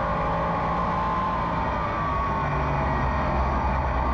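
Race car engine running steadily under green-flag racing, a continuous drone as heard from inside the car.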